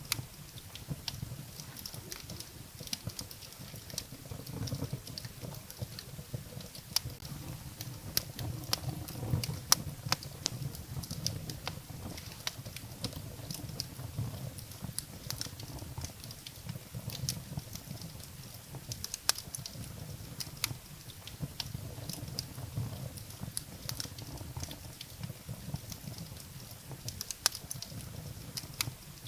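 Firewood burning in a fireplace: irregular sharp crackles and pops over a low, steady rumble of the fire.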